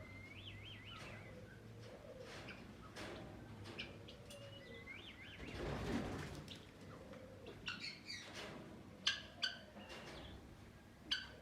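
Aviary birds calling faintly. There are two wavering whistled calls, one at the start and one about five seconds in, and several short sharp chirps in the last few seconds. A brief rush of noise comes about six seconds in.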